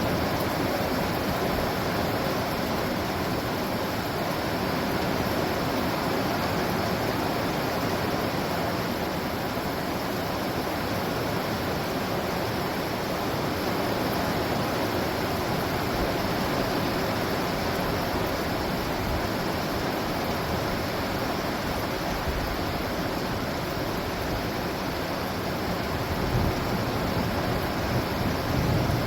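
Steady rushing noise of a storm, with a couple of low rumbling bumps near the end.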